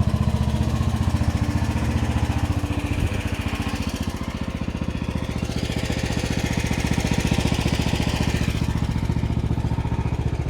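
QH13R mini excavator's engine running steadily while the machine works, with a higher whine coming in twice over the drone.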